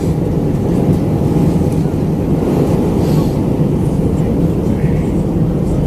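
Steady low rumble of an Airbus A319-112's cabin in flight, the engine and airflow noise heard from a window seat during descent.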